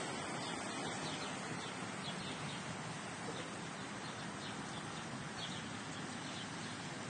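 Faint, repeated bird chirps over a steady outdoor hiss.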